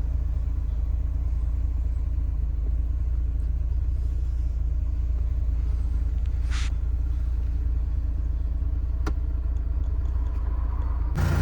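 Vauxhall Cavalier's C20NE four-cylinder engine idling steadily as a low even rumble, with a brief hiss about six and a half seconds in and a single click near nine seconds.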